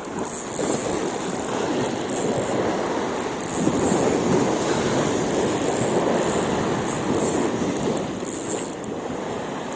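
Strong wind rushing and buffeting over the microphone, swelling louder about three and a half seconds in.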